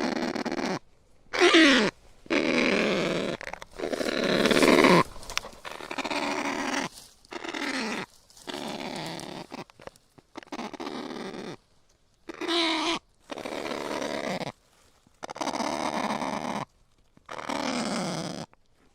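Kakapo giving a series of harsh, hoarse squawks and grunts, about ten calls with short pauses between them; several slide down in pitch.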